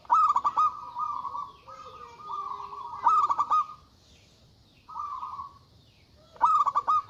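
Zebra dove (perkutut) cooing. Three loud song phrases, each a quick stutter of notes running into a held coo, come at the start, about three seconds in and near the end, with softer coos between them.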